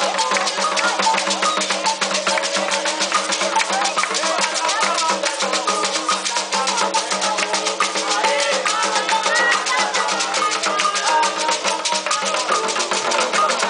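Afro-Brazilian ritual music for Xangô: hand drums beat a fast, steady rhythm with rattles shaking along, and voices sing a chant over them, most clearly in the second half.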